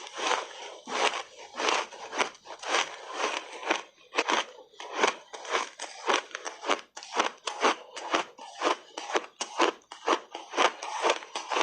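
Frozen ice being chewed close to the microphone: a run of sharp, crisp crunches, about two a second, as the ice cracks between the teeth.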